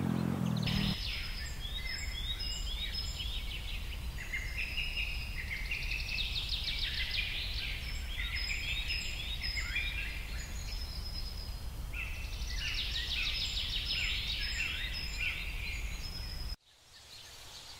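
Many birds chirping and chattering at once in a steady stream of short, quick notes over a low, steady city rumble. The whole sound cuts off abruptly about a second before the end, leaving only a faint hiss.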